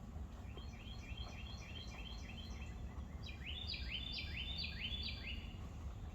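A songbird singing: a run of short repeated rising notes, then a louder run of slurred two-part notes at about two a second.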